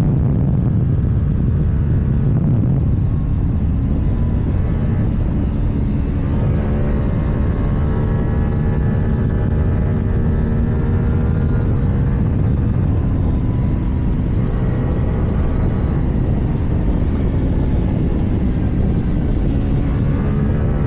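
KTM Duke 790 parallel-twin engine running through an Akrapovic exhaust at a fairly steady cruise, mixed with heavy wind and road rumble. The engine note comes through more clearly about six seconds in, fades briefly past the middle, then returns.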